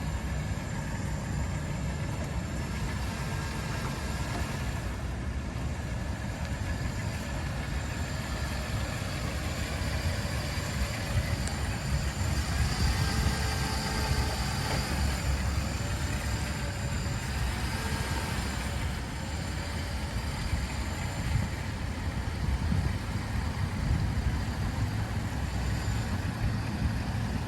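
A car's engine running at low speed with a steady low rumble, heard from inside the cabin while the car is manoeuvred slowly in reverse into a parking space.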